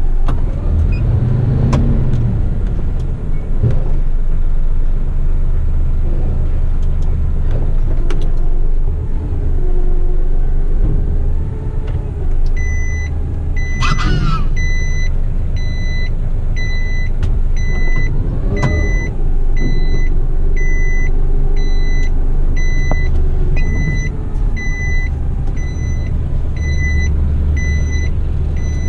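Diesel engine of an eight-wheeler twin-steer waste truck running steadily under way, heard from inside the cab. About halfway in, a repeating electronic beep starts, about once a second, and keeps going. A short hiss comes just after the beeping starts.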